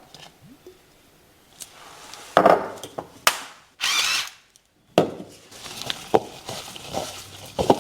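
Kitchen prep sounds: a string of sharp knocks and clicks from utensils being handled, with a loud hissing rasp about four seconds in.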